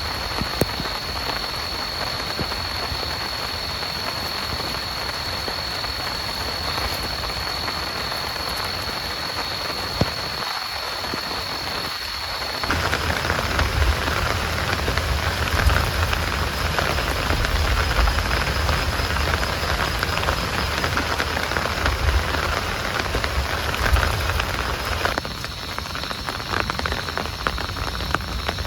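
Heavy rain falling steadily, with a thin steady high-pitched whine over it at first. About halfway through the rain gets louder and deeper.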